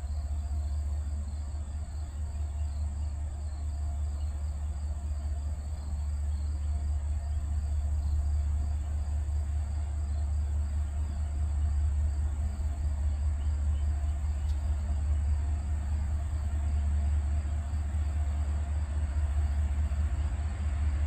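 Low, steady rumble of approaching diesel freight locomotives, growing a little louder partway through, over the steady chirring of insects.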